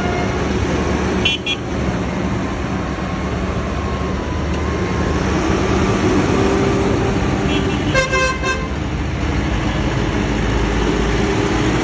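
Tractor engines running steadily as they go past, with a short, high double toot of a horn just over a second in and a horn sounding in several quick blasts around eight seconds in.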